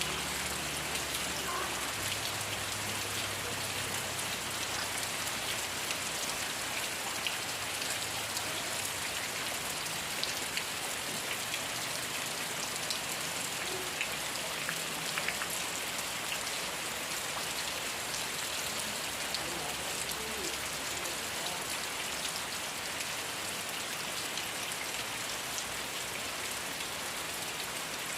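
Steady rain falling, a constant hiss of rainfall with many small drop ticks on surfaces.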